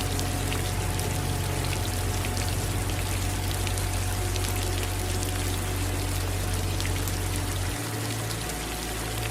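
Steady rain: a constant hiss of falling water with many small drop ticks through it. Underneath runs a low steady drone that shifts about eight seconds in.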